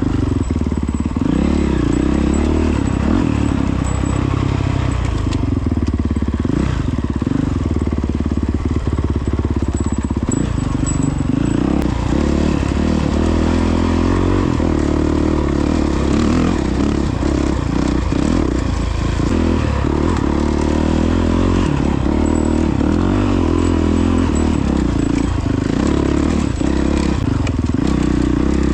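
Honda CRF450X single-cylinder four-stroke dirt bike engine running under way off-road, its pitch rising and falling with the throttle, with scattered clatter.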